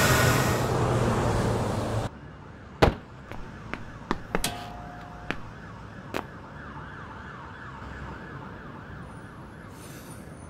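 A car rushes past loudly and cuts off sharply about two seconds in. After that, a few sharp clicks and knocks, and a faint distant siren wavers up and down quickly, about three times a second, through the rest.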